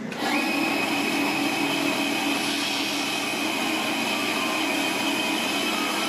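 An electric woodworking power tool switches on just after the start and its motor runs at a steady speed, a constant whine over a noisy hum.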